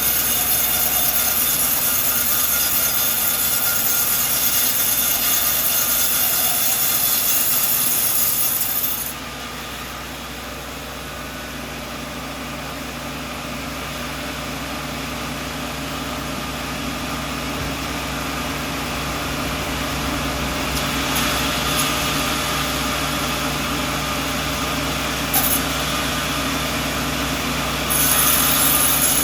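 Sawmill saw cutting through a coconut log, a loud steady noise. About nine seconds in the saw leaves the cut and runs more quietly, the sound slowly building again, and near the end it bites back into the wood.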